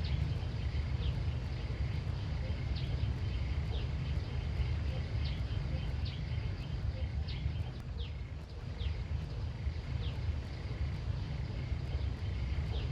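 Outdoor field ambience: a steady low rumble, with short high falling chirps from a small animal repeating roughly once a second.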